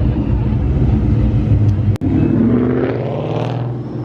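Deep Mustang exhaust rumbling low, then after a sudden break about two seconds in, an engine revving up in rising pitch and fading slightly as the car pulls away.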